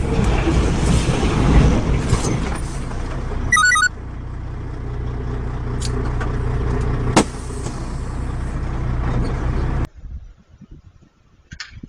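Road vehicle driving, with a steady low engine and road rumble. A short run of quick beeps comes about three and a half seconds in, and a single sharp knock comes about seven seconds in. The rumble cuts off suddenly near the end.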